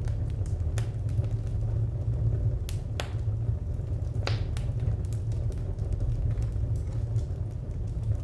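Wood fire burning with a steady low rumble and scattered sharp crackles and pops, a few louder snaps near the middle.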